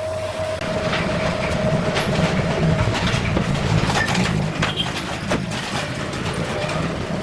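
A machine running steadily with a whine and a low rumble, with scattered knocks over it.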